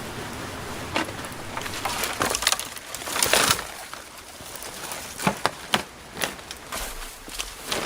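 Scattered sharp wooden cracks and knocks, with a louder rustling crunch about three seconds in.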